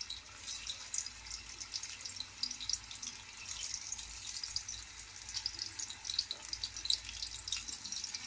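Sweet potato sticks sizzling in hot cooking oil as more are lowered in, a continuous crackle of many small pops.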